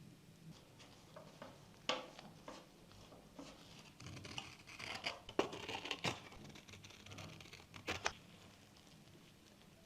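Small plastic scale-model parts being handled and worked by hand: scattered sharp clicks, with scratching and rustling around the middle.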